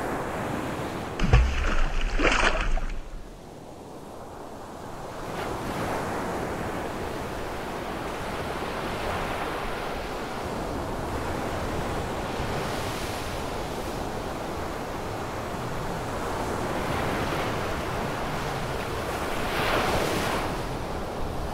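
Ocean waves washing in, a steady surf sound that swells in slow surges every several seconds. About a second in comes a brief loud burst with a deep rumble.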